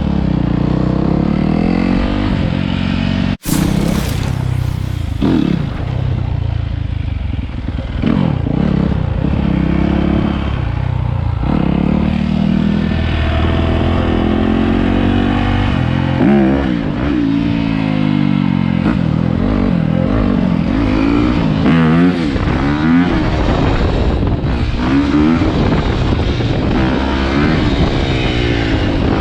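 Several dirt bike engines revving and riding, their pitch rising and falling over one another, with a brief cut-out a few seconds in.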